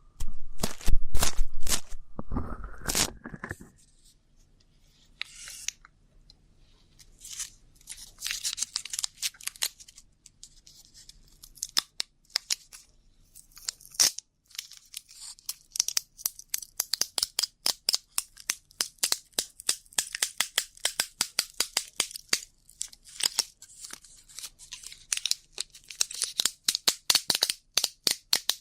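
Close-miked ear-cleaning ASMR: an ear pick scratching and scraping at the microphone's ear. It opens with a few loud, low rubbing strokes, moves to scattered hissy scratches, and from about halfway turns into rapid, dense crackly clicking.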